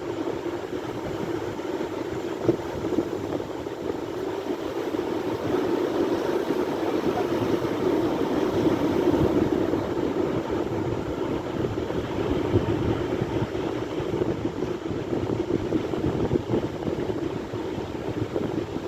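Sea waves washing on the shore in a steady rushing surf, swelling louder for a few seconds in the middle.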